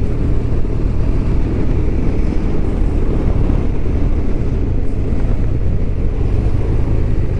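BMW R1200RT boxer-twin engine running at a steady cruise, with wind and road noise as the motorcycle is ridden.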